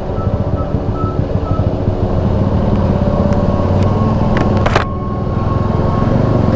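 Motorcycle engine running under way. It gets louder about two seconds in and eases briefly near the five-second mark, with a few sharp clicks just before.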